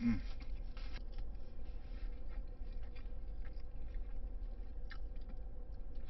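A person chewing a mouthful of crunchy hand-breaded fried chicken sandwich close to the microphone: irregular soft crunches and mouth sounds over a steady low hum.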